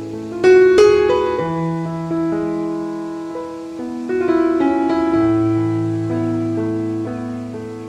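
Background piano music: slow, gentle held chords with new notes struck about half a second in and again about four seconds in.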